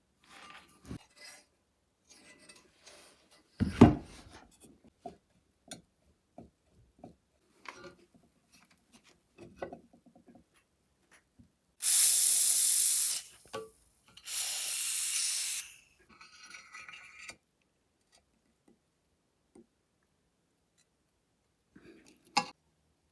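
Workshop handling sounds: scattered knocks, clicks and scraping, with a heavy thump about four seconds in. Near the middle come two hissing bursts of about a second and a half each.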